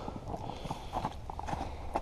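An ice scoop knocking and scraping against the ice in a fishing hole, making a run of light, irregular knocks and clicks.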